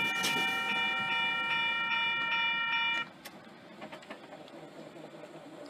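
Double-deck electric interurban train going away. A steady high-pitched ringing of several tones holds for about three seconds and then stops suddenly, leaving only a faint rumble as the train moves off.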